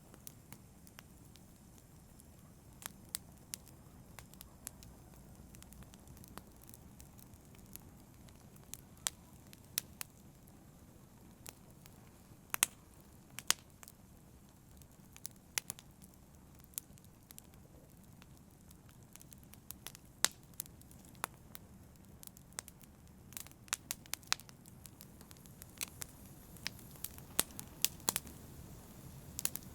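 Campfire burning: wood crackling and popping in sharp, irregular snaps over a low, steady hiss and rumble of the flames, the pops coming thicker near the end.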